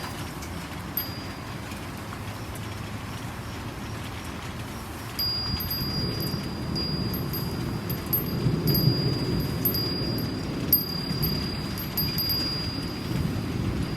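Steady rain hiss with a Japanese wind chime ringing, a high clear tone that comes in about five seconds in and holds. A low thunder rumble swells through the middle and eases near the end.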